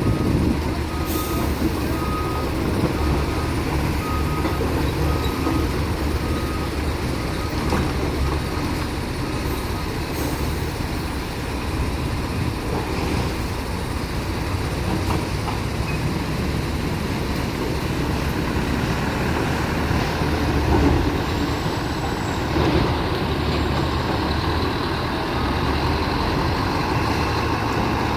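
Heavy truck engine running steadily, with a reversing beeper sounding a regular string of beeps that stops about ten seconds in.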